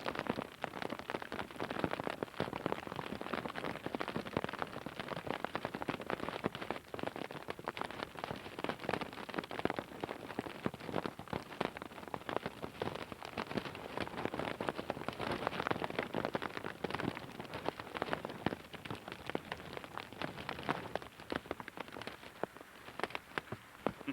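Heavy rain beating down on a hard surface, a dense clatter of separate drops that eases slightly near the end.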